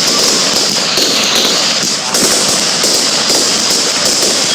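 Fireworks going off in a dense, continuous barrage of rapid crackling bangs.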